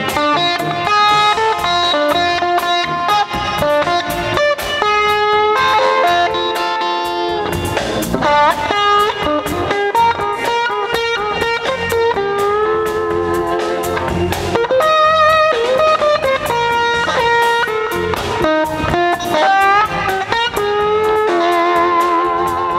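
Live rock band jamming, with an electric guitar lead playing long sustained melodic lines that bend and slide between notes, with vibrato near the end, over bass and drums.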